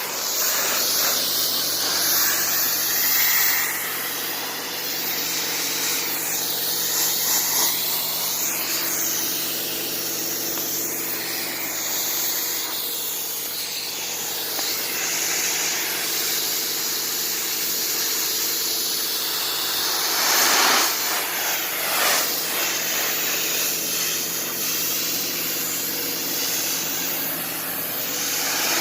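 Pressure washer spraying water: a steady, loud hiss over the steady hum of the washer's motor and pump. The spray gets briefly louder about two-thirds of the way through.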